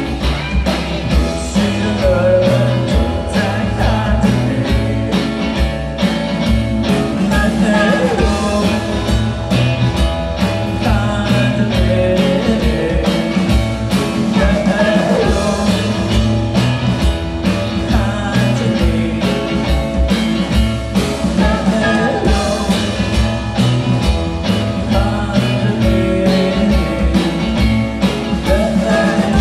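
Rock band playing live, with a steady drum beat under guitar and other pitched parts that bend up and down.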